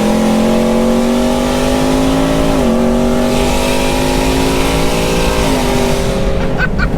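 Whipple-supercharged 5.0 L V8 of a 2021 Ford F-150 with long-tube headers, high-flow cats and a Corsa Extreme cat-back exhaust, at full throttle, heard from inside the cab with the windows down and wind rushing in. The engine note climbs steadily, dropping with upshifts right at the start, about two and a half seconds in and about five and a half seconds in, and eases off near the end.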